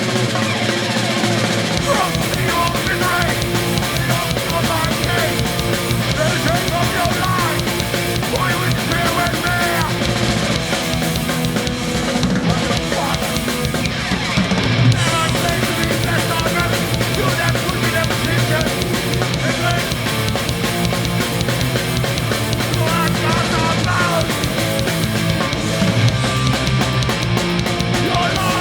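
A hardcore punk band playing live, loud and without a break: distorted electric guitars, bass and a drum kit.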